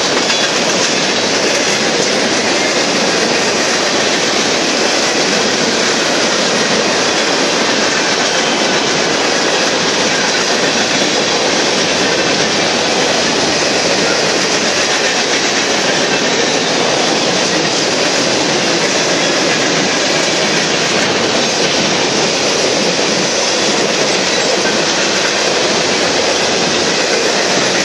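Freight cars of a BNSF mixed manifest train rolling steadily past at trackside: a loud, even noise of steel wheels running on the rails.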